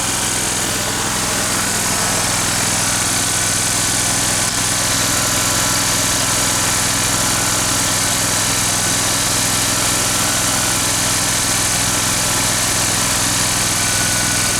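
Kohler twin-cylinder engine of a Dixon zero-turn mower running steadily with no load, the deck belt off the clutch. It runs evenly, now firing on both cylinders after new ignition coils and spark plugs.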